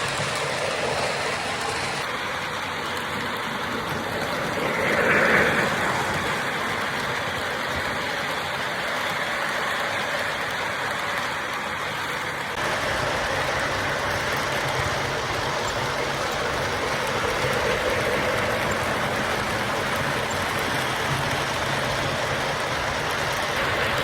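O gauge model trains running on a layout: a steady rolling rumble that changes abruptly twice, with a brief louder sound about five seconds in.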